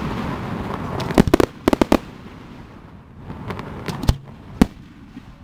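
Aerial fireworks display: a dense crackling from bursting shells, then two quick clusters of sharp bangs about a second in, and two single louder reports near the end.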